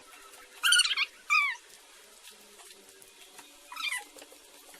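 Three short, high-pitched cries, each falling in pitch: two close together about a second in and a third near the end.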